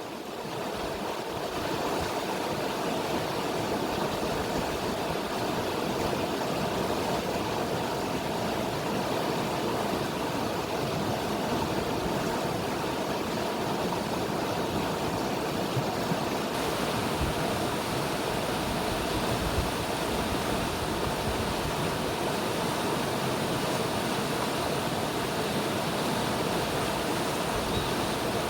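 River water flowing steadily, an even rushing wash that swells slightly in the first couple of seconds and then holds.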